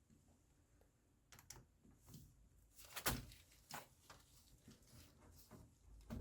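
Faint, scattered clicks and knocks of hand tools and metal parts being handled while fasteners on a scooter engine are tightened.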